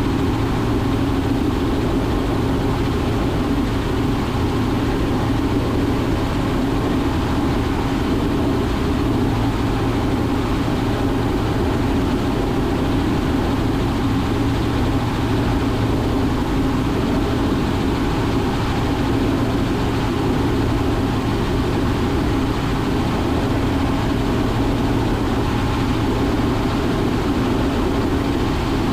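Robinson R44 Raven II helicopter in steady cruise flight, heard from inside the cockpit: an even, loud drone of engine, rotors and airflow that holds constant throughout.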